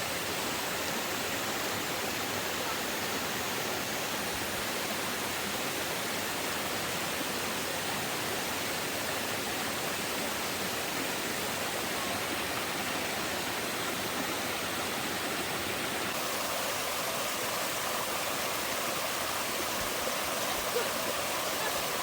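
Steady rushing of water, an even hiss without breaks.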